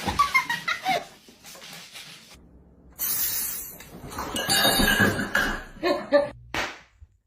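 People's voices and laughter, broken by an abrupt cut to silence about two and a half seconds in, followed by a louder, noisier stretch.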